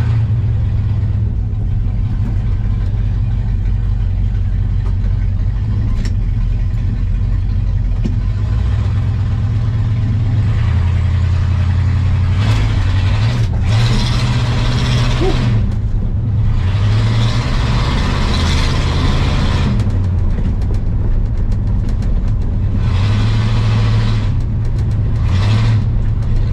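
1985 Ford F250 pickup being driven, its engine heard from inside the cab; the revs rise and fall several times, with louder surges around the middle and near the end.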